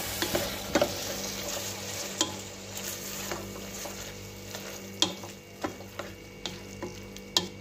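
Lamb tripe, onion and chopped tomato sizzling as they fry in a stainless steel pot while being stirred, with a steady sizzle and several sharp clinks of the spoon against the pot.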